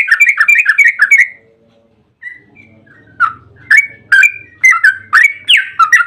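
Yellow-vented bulbul (trucukan) singing its rapid chattering 'ropel' song: a quick run of repeated notes that stops about a second in, then after a short pause starts again and goes on in a fast series.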